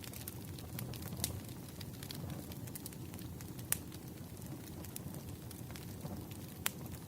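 Wood fire burning: a steady low rumble of flames with scattered sharp crackles and pops, the loudest about a second in, near the middle and near the end.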